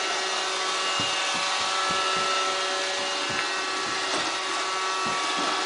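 Roomba robot vacuum running: a steady whirring of its motors and brushes with several steady whining tones. Irregular low thumps, about a dozen, come through it from about a second in.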